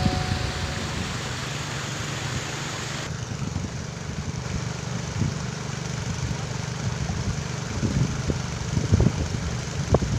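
An engine idling steadily, with a few short knocks near the end.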